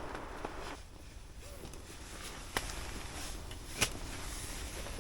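Camp cooking gear being handled: two sharp clicks, the second louder, over a steady low hiss.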